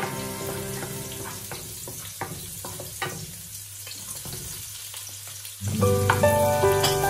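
Garlic and sliced onion sizzling in hot oil in a pan, with crackles and light clicks as the onion is tipped in and stirred with a wooden spoon. Background music fades under the frying and comes back in louder near the end.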